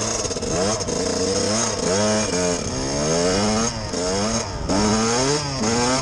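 A vehicle engine revving up and down over and over, its pitch rising and falling about once a second.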